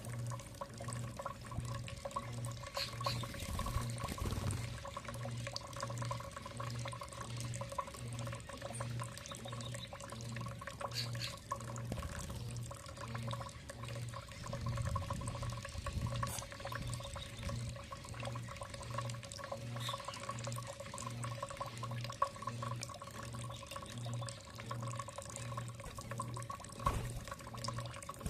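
Water trickling and dripping over a low hum that pulses about one and a half times a second, with a few faint, brief high chirps.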